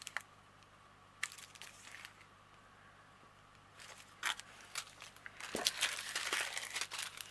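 Small plastic bags of diamond painting drills crinkling as they are handled: a few scattered light crackles, then steadier crinkling from about five and a half seconds in.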